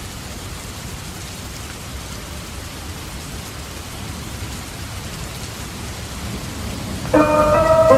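Steady rain falling. About seven seconds in, a new song starts with sustained instrument notes, sounding muffled, as if it were playing in another room.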